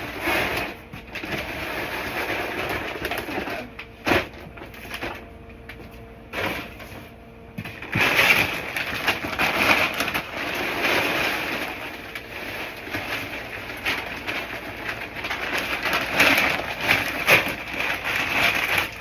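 Dry feed pouring from a bag into a plastic container, a hiss that swells and fades in surges, with a single knock about four seconds in.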